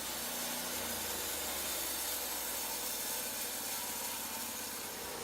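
Portable band sawmill running steadily: an engine hum under an even hiss.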